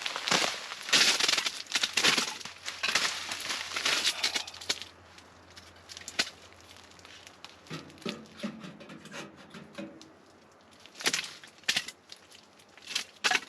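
Firewood being split and handled: a run of crunching and cracking for about the first five seconds, then a few separate sharp wooden knocks near the end.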